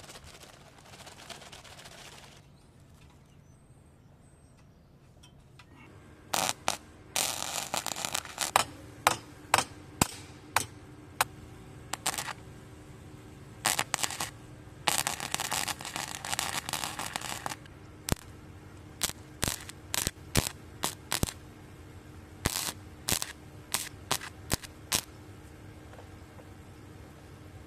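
MIG welder stitch welding a thin steel muffler: short crackling bursts and sharp pops, a few held for a second or two, starting about six seconds in. The welds are kept short and rapid because the thin muffler metal burns through.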